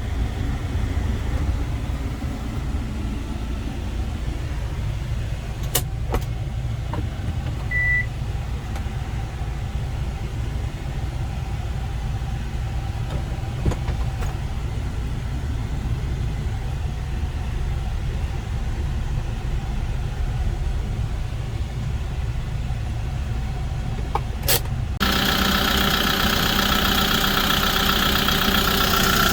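Kia Bongo 3 1.2-ton cargo truck's engine idling with a steady low rumble, with a couple of sharp clicks and a short beep about eight seconds in. Near the end the sound turns abruptly louder, with a higher steady engine note.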